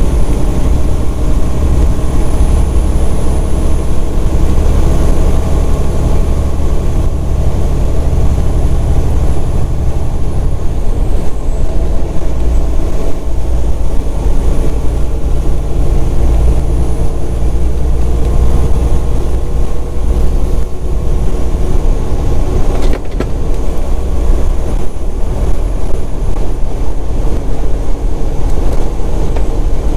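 Semi truck's diesel engine and road noise heard inside the cab while driving, a steady low rumble that runs on throughout.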